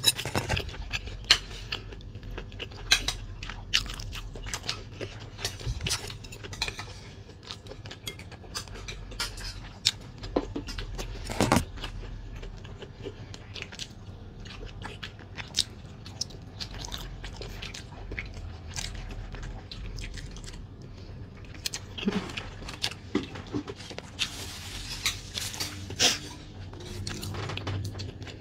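Close-miked chewing and mouth sounds of a person eating fried egg with minced pork, with frequent sharp smacks and clicks.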